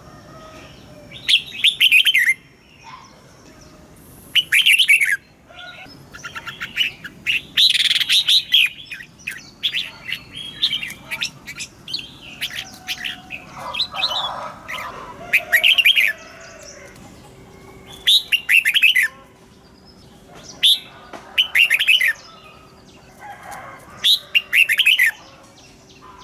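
Red-whiskered bulbul singing: short, bright, warbled phrases repeated every two to three seconds, with a quicker run of phrases in the middle. A faint steady hum joins about halfway through.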